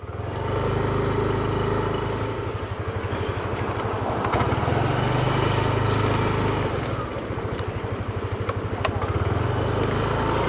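A motor vehicle's engine running with road noise while driving: a steady low hum with a fine, even pulse.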